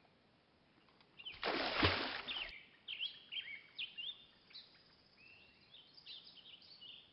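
Birds chirping in short, quick calls, with a burst of noise lasting about a second starting about a second and a half in.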